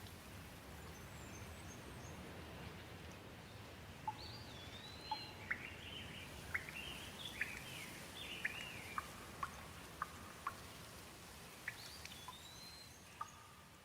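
Gentle rain falling in a faint, steady hiss, with a bird giving a run of short chirps and whistled glides from about four seconds in until near the end.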